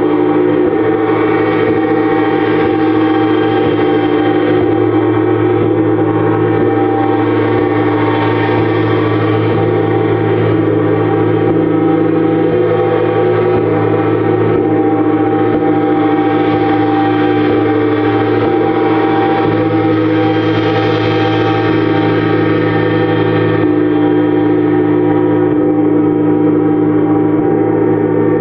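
Gong played continuously for sound healing: a loud, unbroken wash of many overlapping ringing tones that swells and ebbs slightly, with no single strike standing out.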